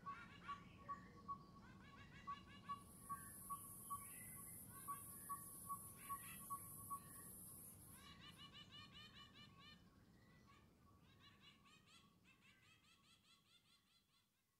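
Faint outdoor ambience of birds chirping: a clear high peep repeats about twice a second over rapid twittering calls. A high steady hiss joins for a few seconds from about three seconds in, and the birdsong fades away over the second half.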